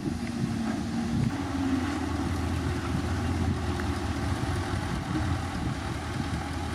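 Heavy earthmoving machine's diesel engine running steadily with a low, even drone.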